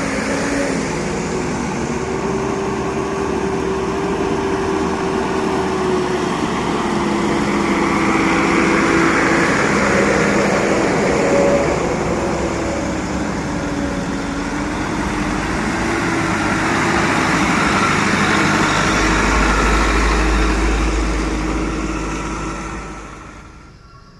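Medium trucks' engines running as the convoy passes, the engine note wavering up and down over a steady rush of noise, dying away near the end.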